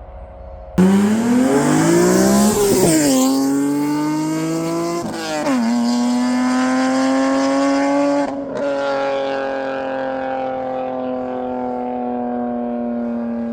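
BMW E46 M3's S54 inline-six through an aftermarket Valvetronic Designs valved exhaust, pulling hard with the engine note climbing through the revs. Two quick upshifts drop the pitch before it climbs again, then the throttle eases and the note settles and slowly falls as the car cruises.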